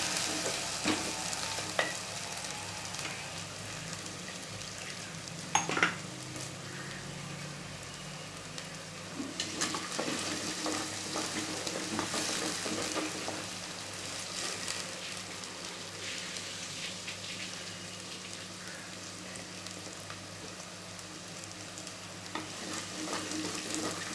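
Onions and curry leaves sizzling in hot oil in a clay pot while being stirred, the spoon scraping and clicking against the pot's sides. A pair of louder knocks comes about five to six seconds in.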